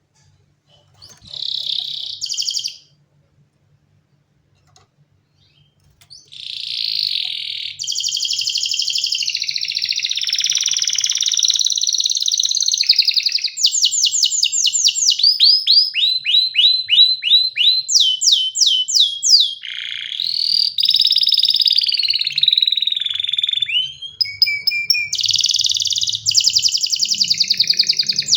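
Domestic canary singing: a short phrase, a pause of about three seconds, then a long run of unbroken song of held rolls and fast trills of quick repeated down-sweeping notes.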